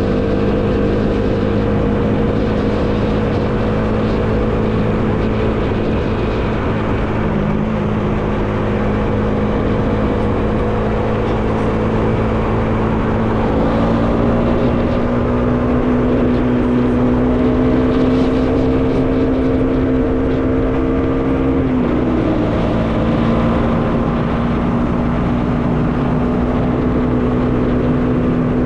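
Bajaj Dominar 400's single-cylinder engine running at a steady cruise with rushing wind noise, the engine note slowly rising as the bike gains speed, with a brief dip about three quarters of the way through before it steadies again.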